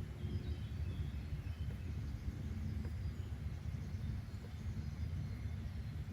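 Outdoor nature ambience: a steady low rumble with faint, scattered bird chirps.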